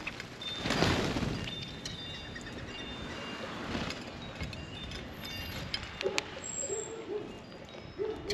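Outdoor ambience with short, high chirps from small birds, a brief rush of noise about a second in, and a few low calls near the end.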